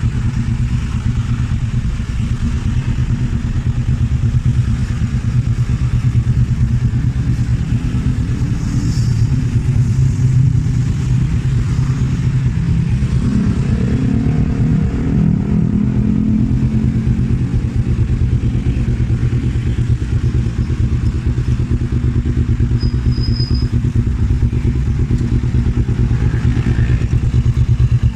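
Kawasaki Z250 parallel-twin engine idling steadily through an aftermarket Arrow exhaust, with a brief rise in engine speed about halfway through.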